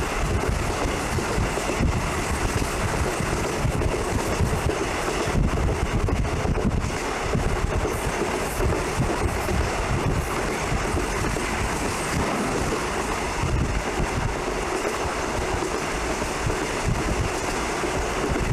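Passenger train running along the rails: a steady rumble of wheels on track with rattling.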